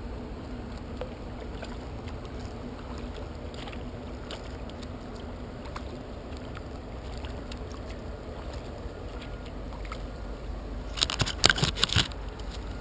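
Kayak on open harbour water: water washing around the hull with scattered small paddle drips, over a faint steady low hum. Near the end comes a cluster of louder splashes and knocks lasting about a second.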